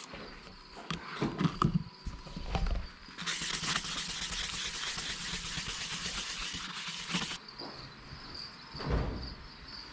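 Water spraying onto a headlight lens to wet it for wet sanding: an even hiss that starts about three seconds in and stops sharply about four seconds later. Crickets chirp faintly afterwards.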